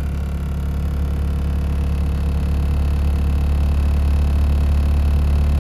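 1948 Willys-Overland Jeepster engine idling steadily just after a cold start, with the choke still pulled out because the engine is cold-blooded.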